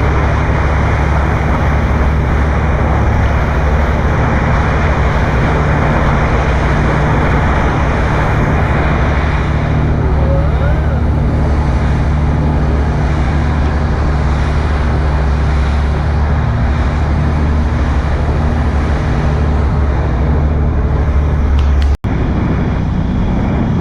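Motorboat engine running steadily under way, a deep constant hum under a thick rush of wind and water noise. Near the end it cuts off abruptly and only the rushing noise is left.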